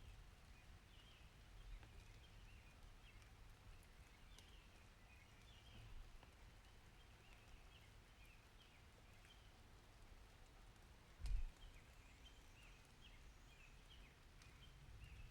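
Faint outdoor ambience: a steady low rumble with many small, high chirps throughout, and one short low thump about eleven seconds in.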